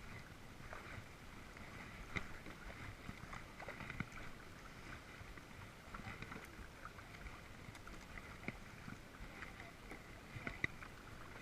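Faint water sounds around a kayak on a pond, with soft, irregular small splashes and drips over a quiet background.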